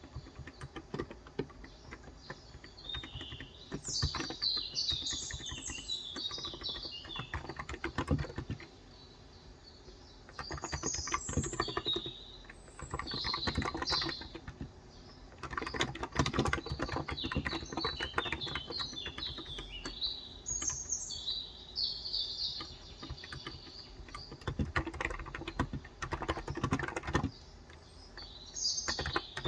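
Typing on a COX Endeavour electro-capacitive (non-contact) tenkeyless keyboard with light 35 g keys: runs of rapid keystrokes with a couple of short pauses. Small birds chirp and twitter in several stretches over the typing.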